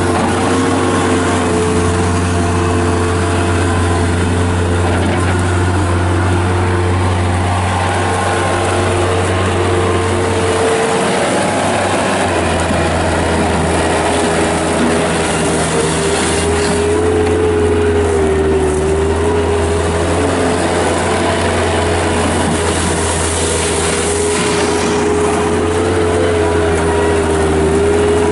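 Kubota diesel engine of a 1995 Bobcat 7753 skid steer loader running steadily, with a steady whine over the engine note. The engine note shifts lower about eleven or twelve seconds in.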